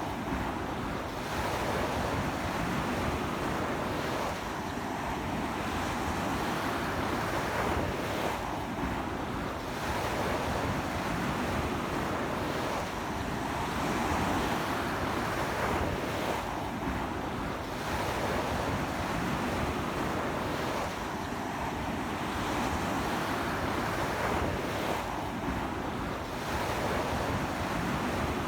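Ocean waves breaking and washing up a beach in strong wind, the surf swelling and easing every few seconds, with wind buffeting the microphone.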